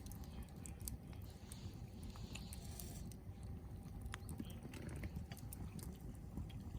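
Log bonfire crackling: irregular sharp pops and snaps of burning wood.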